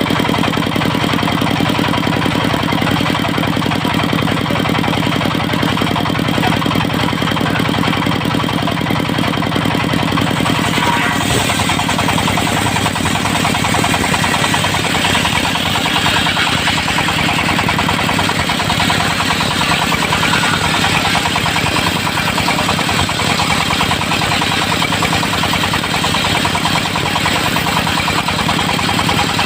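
The engine of a mobile circular sawmill running steadily. About eleven seconds in its note shifts and a higher hiss builds up and stays.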